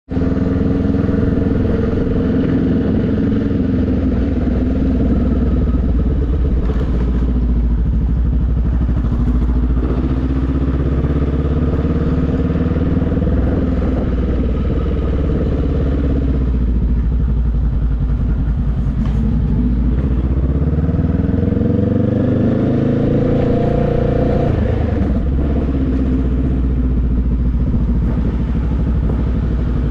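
Motorcycle engine under way, its note climbing in long rises and falling back several times as the bike accelerates and eases off, with a sudden drop in pitch about three-quarters of the way through, over a constant low rumble.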